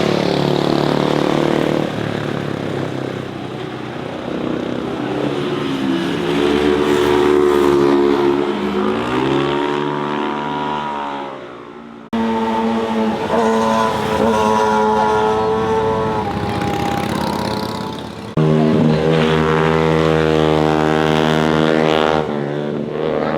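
Motorcycle engines passing close through a bend, the pitch dropping as the bikes slow and then climbing as they accelerate away. The sound changes abruptly twice, about halfway and near the end, to a new bike passing at steady high revs.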